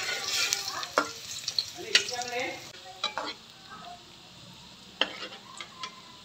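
Tempe slices frying in hot oil in a wok, the oil sizzling, while a metal slotted spatula stirs and turns them, clacking and scraping against the pan about once a second. The sizzle grows quieter after about three seconds.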